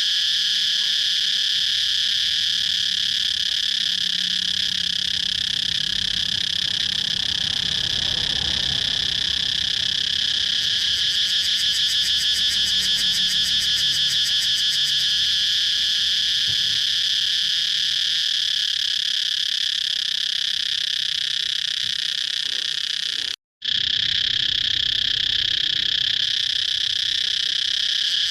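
Cicadas calling: a steady, high-pitched, rapidly pulsing buzz that drops out to silence for a split second about 23 seconds in, then carries on.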